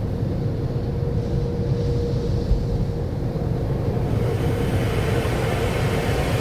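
Automatic car wash tunnel equipment running: a steady low rumble with a constant motor whine, and a spray-like hiss that builds from about four seconds in.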